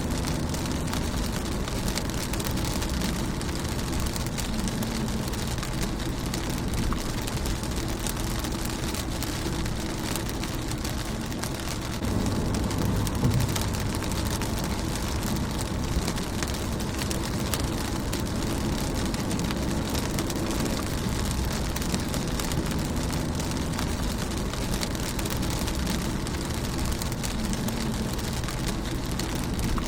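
Steady rain falling on a car's windshield and body: a dense patter of drops over a low rumble, a little louder from about twelve seconds in.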